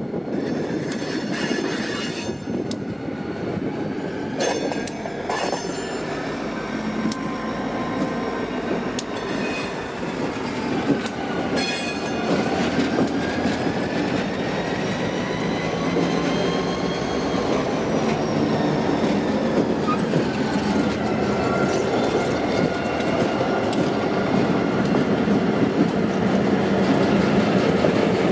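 Turbocharged EMD 645 diesel locomotives running as they move through the yard. Their steady rumble grows louder toward the end, under high squealing tones from the wheels that slide slowly up and down, with a few sharp squeaks and clanks near the start and about twelve seconds in.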